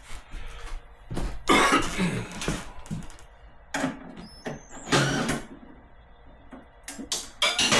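A man coughing several times in short bursts, a cough from a cold he is still getting over, with small handling clicks in between.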